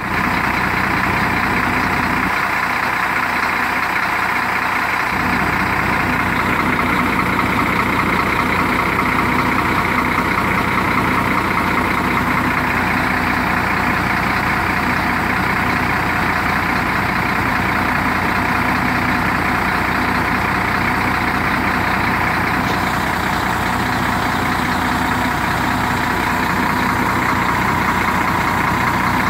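Scania K124 coach's 12-litre inline-six diesel engine running steadily.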